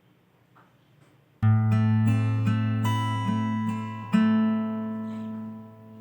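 A short plucked-string melody like an acoustic guitar, starting suddenly about a second and a half in, with a fresh strum near the four-second mark, then fading away.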